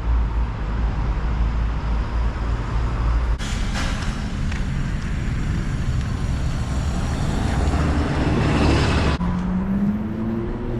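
City street traffic. A low, steady engine rumble gives way about three seconds in to the rushing noise of vehicles passing, which swells and then cuts off abruptly; near the end an engine tone rises in pitch as a vehicle pulls away.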